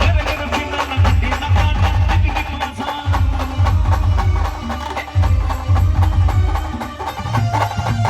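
Band music for dancing: a fast percussion beat with heavy bass pulses about once a second under a held melody line.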